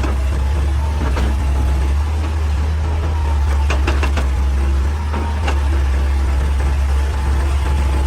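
Heavy diesel engine of a hydraulic excavator running steadily, with a few sharp knocks about a second in, around four seconds in and again past five seconds.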